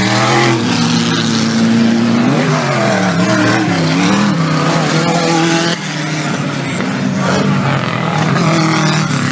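Off-road 4WD race vehicles' engines revving, their pitch rising and falling as they are worked on the dirt course, with a small drop in loudness about six seconds in.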